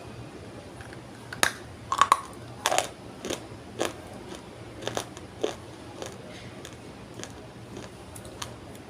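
Dry multani mitti (Fuller's earth clay) being bitten and chewed. A run of sharp, brittle crunches comes from about a second and a half in, loudest over the next few seconds, then thins to fainter crackles.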